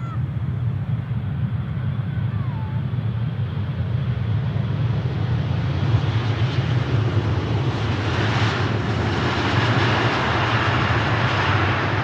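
Boeing 777-200 jet engines on landing approach: a steady low rumble, with a rushing jet noise that builds up from about halfway and stays loud as the airliner comes close.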